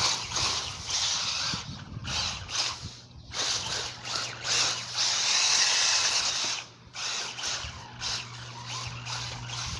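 ECX Boost 1/10-scale two-wheel-drive RC buggy running on a 3S lipo: electric motor and tyres on loose ground surging in several bursts of throttle with brief lulls between, the longest and loudest run a little past halfway.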